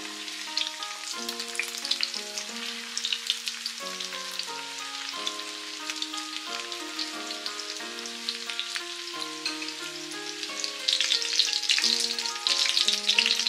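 Egg-coated chicken pieces shallow-frying in oil in a frying pan, a steady sizzle and crackle that grows louder about eleven seconds in. A soft background melody plays underneath.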